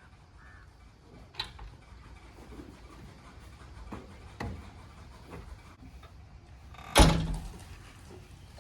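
A few scattered knocks and clunks, then one loud bang about seven seconds in that rings briefly, over a faint low rumble.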